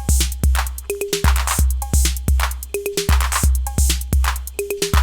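Roland TR-08 Boutique drum machine, a clone of the TR-808, playing a looped pattern: long, deep 808 bass drum hits under ticking hi-hats, with short pitched high conga hits added.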